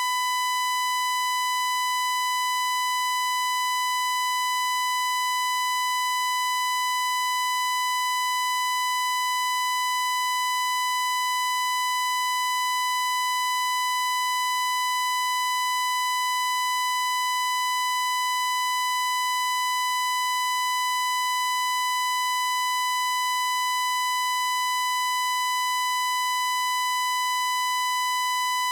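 A steady, high-pitched electronic tone with a harsh edge from its overtones, held at one pitch and loudness without a break, played as an annoying noise.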